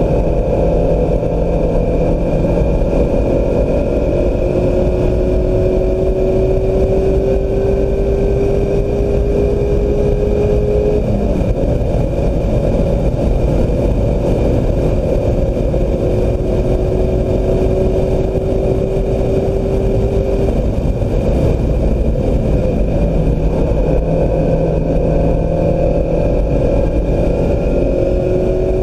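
2016 Mazda MX-5 Miata's four-cylinder engine pulling hard at speed, over heavy wind and road noise. Its pitch climbs slowly through long stretches of acceleration, drops about eleven seconds in and again about twenty seconds in, then climbs again near the end.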